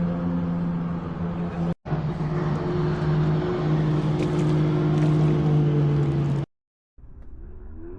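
A motor running steadily at a constant pitch, broken by two abrupt gaps.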